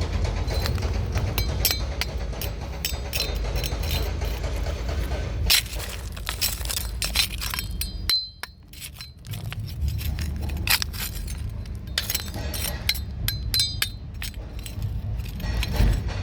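Hard clinks and scrapes of tools striking rock, irregular and many, over a steady low rumble; the rumble drops away briefly about eight seconds in.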